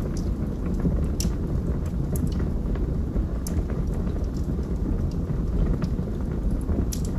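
Wood fire burning in a fireplace: a steady low rumble of the flames with scattered sharp crackles and pops from the burning logs, a few louder ones about a second in and near the end.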